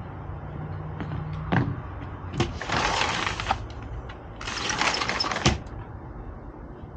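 A squirrel gnawing and cracking a nut shell: a few sharp cracks, then two stretches of crunching, each about a second long.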